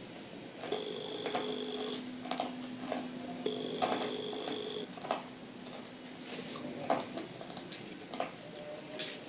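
Close-up chewing of crispy fried chicken wings, with crunches and mouth clicks scattered throughout. A steady two-pitch tone sounds twice, each time for about a second, and a low hum holds through the middle.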